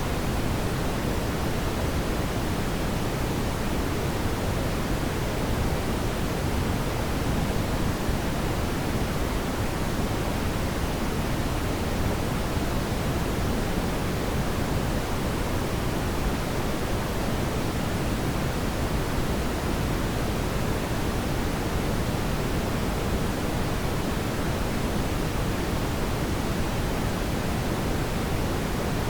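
Steady brown noise: a smooth, unchanging hiss weighted toward the low end.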